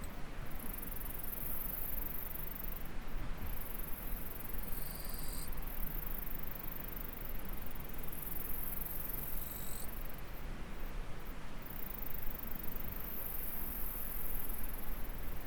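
A chorus of insects in a rice paddy, very high-pitched, that drops out briefly now and then, over the steady rush of a nearby stream. A short, clear tone sounds about five seconds in and again near ten seconds.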